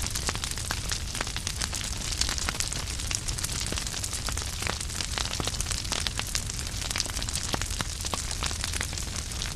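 Wood fire crackling in a fireplace: frequent, irregular sharp pops and snaps of burning logs over a steady low rumble of the flames.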